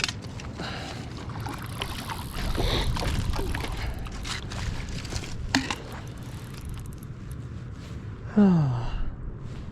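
Spillway water rushing in a steady low rumble, with scattered small knocks and clicks. About eight seconds in, the loudest sound is a short tone that falls in pitch over about half a second.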